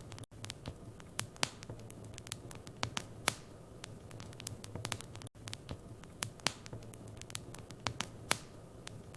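Wood fire in a fireplace crackling: irregular sharp pops and snaps over a soft steady hiss, with a low steady hum underneath. The sound cuts out for an instant twice.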